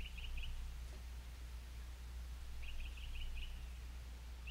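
Faint bird chirping: two short runs of quick, high chirps, one at the start and one about two and a half seconds in, over a steady low hum.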